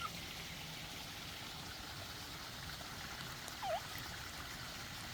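Forest stream flowing steadily, with a short, faint squeak about three and a half seconds in.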